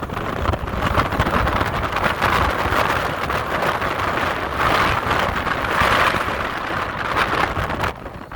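Strong wind buffeting a phone's microphone, rising and falling in gusts and easing off near the end.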